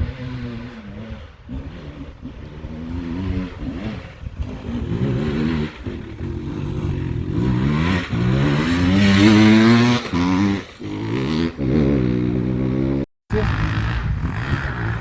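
Enduro motorcycle engine being ridden, its pitch repeatedly climbing under throttle and dropping back as it shifts and lets off, loudest in the middle. The sound cuts out for a moment about two seconds before the end.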